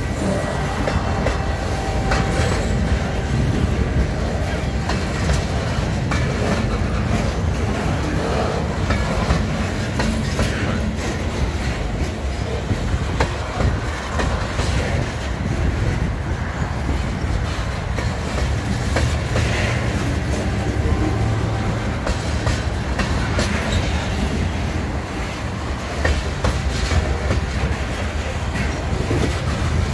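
Freight train of boxcars and covered hopper cars rolling past close by: a steady low rumble with the wheels clicking and clattering over the track.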